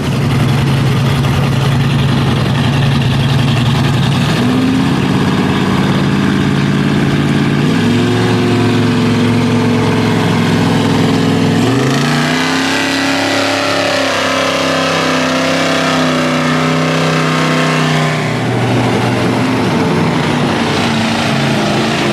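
Truck engine running hard at high revs, holding steady pitches that step up twice, climb again about twelve seconds in and drop back about eighteen seconds in.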